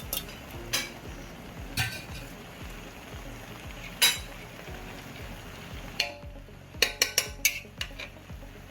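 Metal spoon scraping and clinking against a cooking pot as cooked rice is spooned in and spread as the top layer of a biryani, over a steady hiss. One sharp clink comes about four seconds in, and a quick run of ringing clinks follows near the end.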